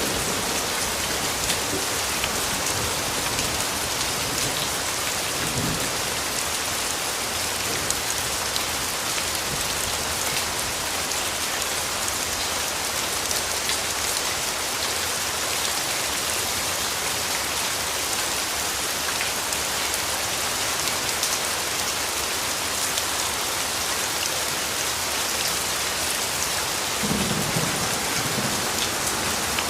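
Steady rainfall, an even hiss of raindrops. Faint low rumbles of distant thunder come about five seconds in and again near the end.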